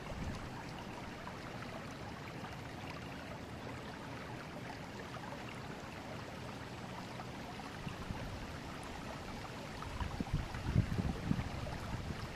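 River water flowing steadily over stones, an even rushing. About ten seconds in, low uneven rumbling thuds join it, like wind buffeting the microphone.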